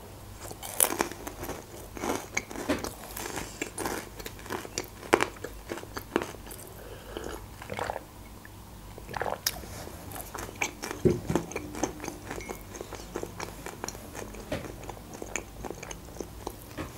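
Close-miked chewing of a Raffaello coconut wafer candy: crisp crunches and wet mouth clicks, with a sip from a mug about halfway through.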